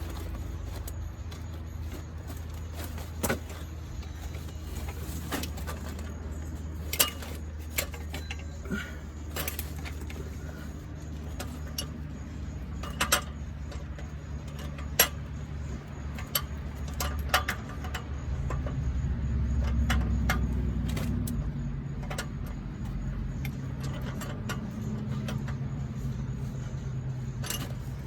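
Scattered metallic clinks and knocks of tools and parts being handled under a truck, over a steady low engine-like hum that swells for a few seconds about two-thirds of the way through.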